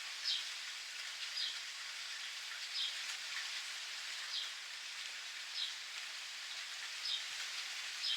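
Steady rain pattering, with a bird repeating a short, high, falling chirp about every second and a half.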